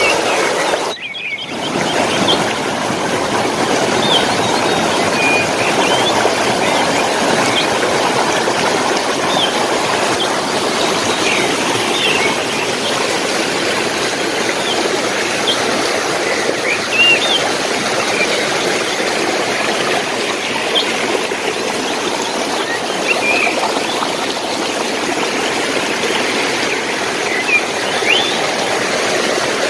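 Water running steadily in a stream, with small birds chirping briefly now and then above it. The sound drops out for an instant about a second in.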